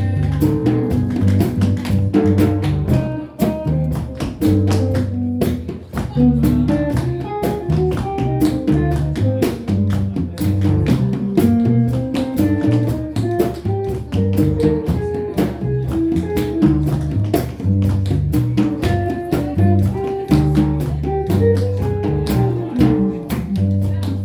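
Jazz combo of guitar, double bass and drums playing, with the sharp clicks of tap shoes beating rhythms over the band.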